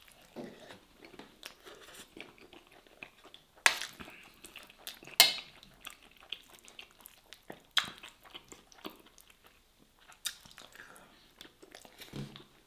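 Close-miked chewing of soft stuffed vegetables eaten by hand: wet mouth and lip noises throughout, with a few sharp, loud smacks standing out.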